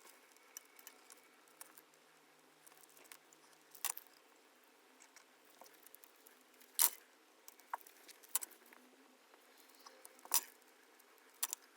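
Faint, scattered clicks and taps of small hand work as reflective tape is pressed over a phone's camera lenses. The sharpest clicks come about 4, 7 and 10 seconds in.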